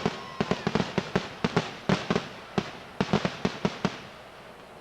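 Fireworks going off in a rapid, irregular run of sharp cracks and bangs, several a second, which stops about four seconds in.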